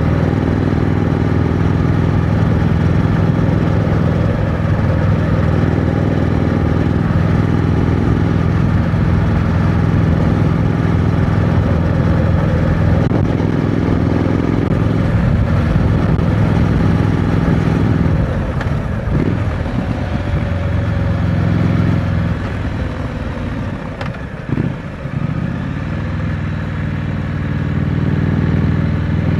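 Triumph Scrambler 900's parallel-twin engine through the stock exhaust, running steadily under throttle while riding. About two-thirds of the way in it eases off, with a couple of brief dips, then pulls up again near the end.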